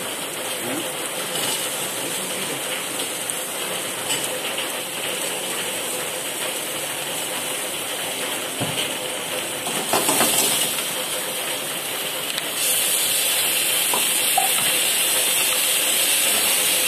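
Chicken frying in a hot wok over a gas flame: a steady sizzling hiss with steam, swelling briefly about ten seconds in and growing louder about thirteen seconds in.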